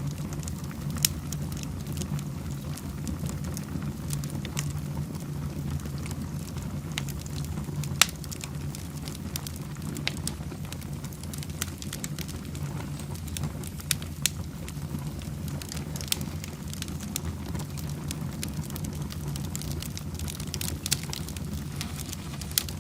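Wood fire burning in a fireplace: a steady low rumble with sharp crackles and pops every second or two, the loudest at about one second and eight seconds in.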